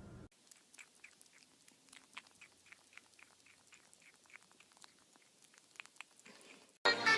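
An animal chewing: soft, quick crunching clicks, about four a second. Loud music cuts in just before the end.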